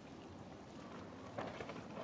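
Steady hiss of rain, with one brief sudden noise about one and a half seconds in.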